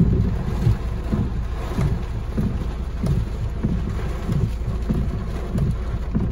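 Heavy rain pelting a car's roof and windshield, heard from inside the cabin as a dense, irregular patter with many small thumps.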